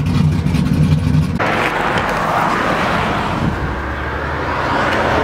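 A car engine running with a steady low hum, cut off abruptly about a second and a half in by a steady rush of road and traffic noise.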